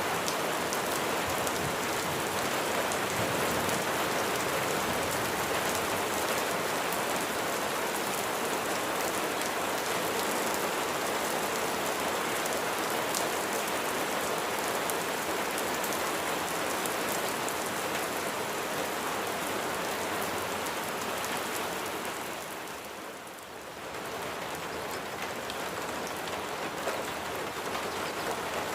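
Steady rain falling, a dense even hiss of many drops, which briefly dips in level about three-quarters of the way through before coming back.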